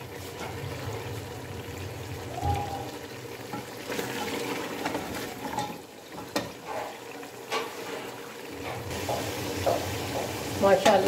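Mutton trotters sizzling as they fry in oil and masala in an open pressure cooker, a steady sizzle, while a spoon stirs them and knocks against the pot several times, mostly in the second half.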